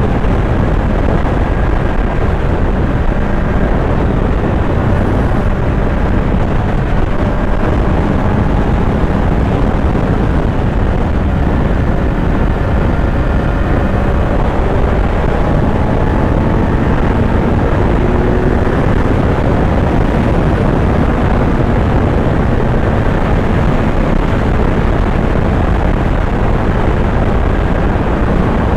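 Kawasaki Z900 inline-four engine running under way, its note gently rising and falling with the throttle, under a steady heavy rush of wind noise.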